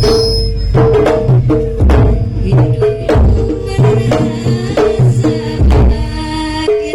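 Live jaranan gamelan music: kendang hand drums beating a busy rhythm under repeated ringing metal gong-chime notes.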